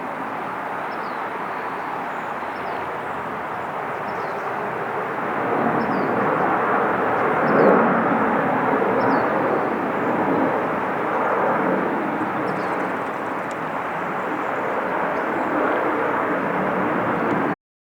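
Jet airliner passing near the airport, a steady rushing engine noise that swells to its loudest about eight seconds in and then holds.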